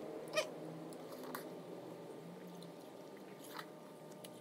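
Faint close-up eating sounds: grapes and watermelon being bitten and chewed, with a sharp click about half a second in and softer clicks later.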